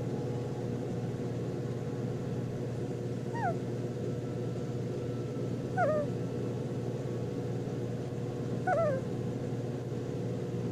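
Sleeping puppy snoring with squeaky nasal whistles: three short high squeaks that drop in pitch, one every two to three seconds, over a steady low hum.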